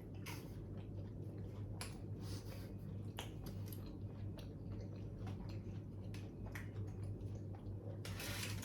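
Someone chewing food, with small mouth clicks and soft rustles and a slightly louder rustle near the end, over a steady low hum.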